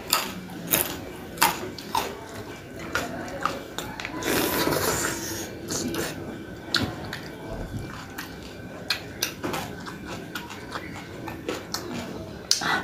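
Close-miked eating sounds: a person chewing raw jengkol with her mouth, many sharp crunchy clicks and wet mouth noises, with a longer, louder noisy stretch about four seconds in.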